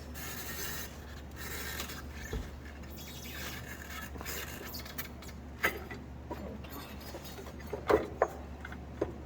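Rubber CVT drive belt being worked off a spread-open secondary clutch by hand: soft rubbing and scraping, then a few light clicks and knocks near the end, over a steady low hum.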